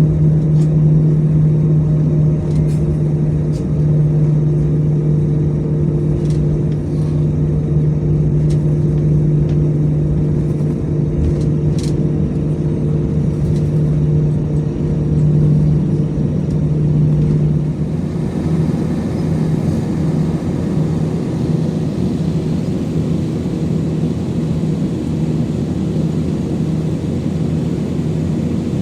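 Airbus A321 cabin noise from a window seat: a steady low hum from the CFM56 jet engines with a few light knocks and rattles. About two-thirds of the way through, the hum fades into a broader, rougher rumble.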